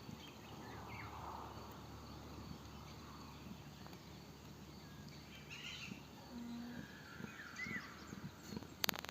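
Faint outdoor rural ambience with a few scattered bird chirps, and a couple of sharp clicks near the end.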